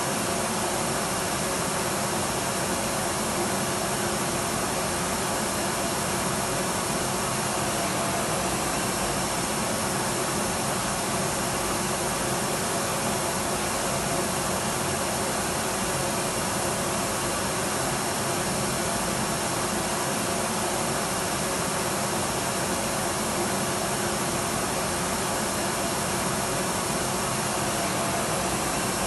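Electric vacuum cleaner running steadily: an even, unchanging rush of motor and airflow noise with faint steady tones in it.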